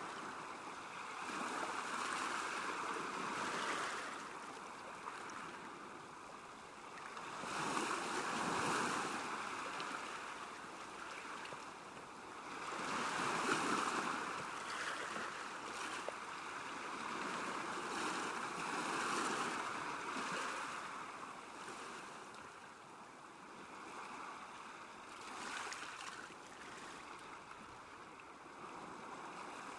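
Small waves lapping on a lake shore, a hissing wash that swells and fades again about every five to six seconds.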